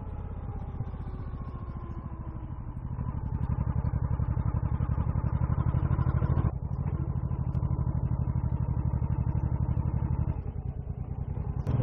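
Motorcycle engine pulling along at road speed. It grows louder a few seconds in, breaks off briefly about six and a half seconds in, then picks up again and eases off near the end.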